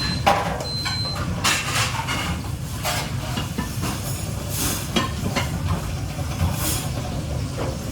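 Restaurant kitchen at work: a steady low rumble and hiss under repeated clatter and knocks of pans and utensils. Two short, high electronic beeps sound in the first second or so.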